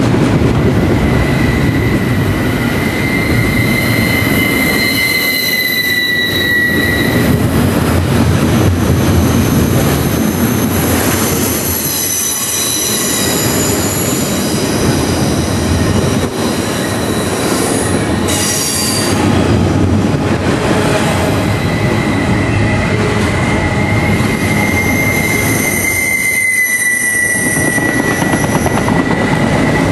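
Double-stack container train passing close by: a steady rumble and rattle of steel wheels and railcars on the track. High wheel squeal rings over it for the first several seconds and again near the end.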